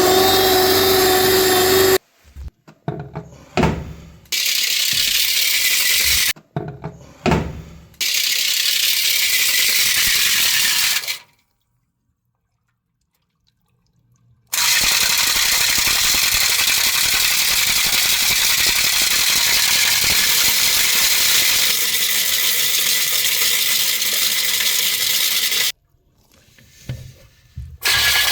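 A motorised drain-cleaning machine running in several long, steady, hissing stretches that start and stop abruptly. Short spells of knocks and rattles fall between the stretches, with a few seconds of near silence about halfway through.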